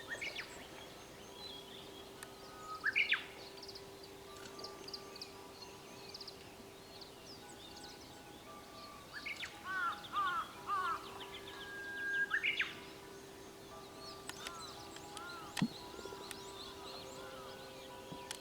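Japanese bush warbler (uguisu) singing its "hoo-hokekyo" song twice: a long held whistle, then a quick rising flourish, about 3 and 12 seconds in. Other small birds chirp throughout.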